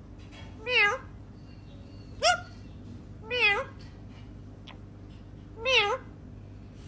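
A talking bird mimicking a cat: four short meow-like calls, each bending up and down in pitch, the second a quick upward sweep.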